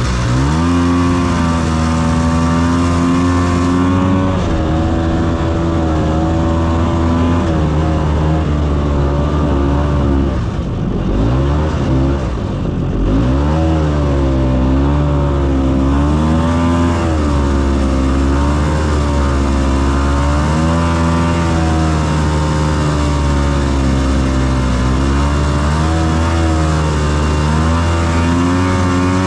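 Ski-Doo snowmobile's 277cc two-stroke engine running under load while towing a trail drag, its pitch wavering up and down with the throttle. About ten seconds in the revs drop off and climb back up twice.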